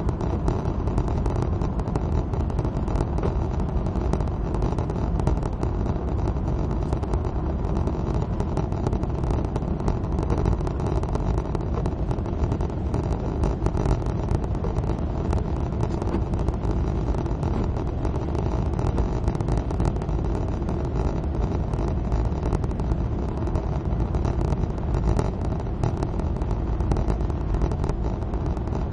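Suzuki Swift at motorway speed in the rain: steady engine and tyre noise on a wet road.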